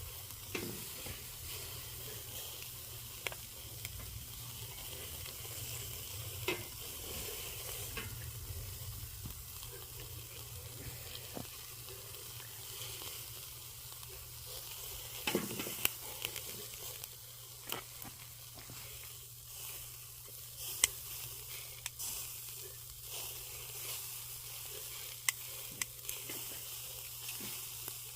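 Chicken deep-frying in hot oil in a cast-iron cauldron: a steady sizzle with scattered sharp pops and crackles, more of them in the second half.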